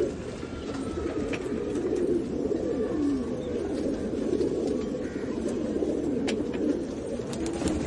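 A group of domestic pigeons cooing, many low calls overlapping into a continuous murmur with no break.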